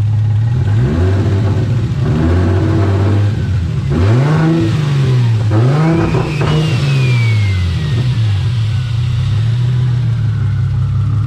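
Turbocharged Lexus IS300 inline-six idling, then blipped about five times in quick succession before settling back to a steady idle. A thin turbo whistle rises with the last rev and then winds down slowly.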